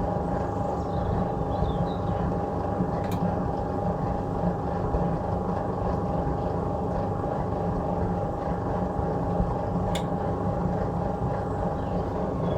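1966 Bendix LA automatic washing machine in its wash cycle, the motor running steadily and turning the stainless steel drum with a steady hum and rumble. Two light clicks come about 3 and 10 seconds in.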